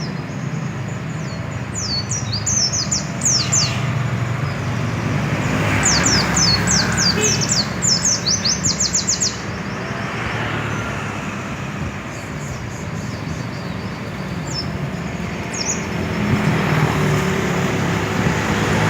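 Caged pleci (white-eye) singing two quick runs of high, sharp, falling chirps, the second run lasting about three seconds, then a few single notes near the end. A steady low hum of road traffic runs underneath.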